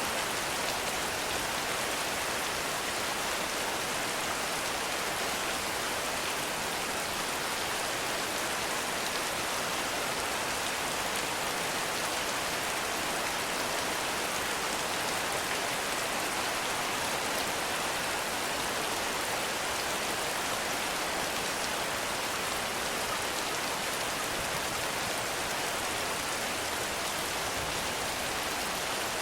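Heavy rain falling steadily, an even hiss of dense raindrops without thunder or pauses.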